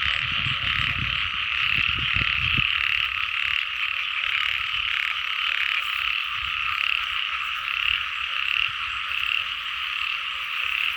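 A dense, steady chorus of many small frogs calling together in wet fields. In the first couple of seconds there are some low thumps.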